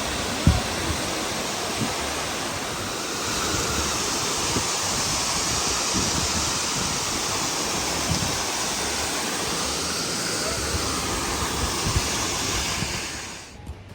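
Waterfall: a steady, full rush of falling water, with a few low thumps on the microphone. It stops suddenly near the end.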